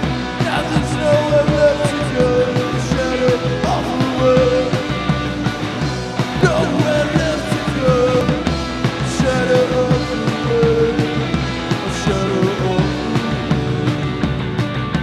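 Rock band playing live and loud, with steady drums under a melody of held notes that slide from one pitch to the next.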